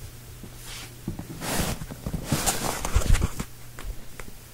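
Irregular light knocks and scuffs with a few short bursts of rustling, the loudest thumps about three seconds in, over a steady low hum.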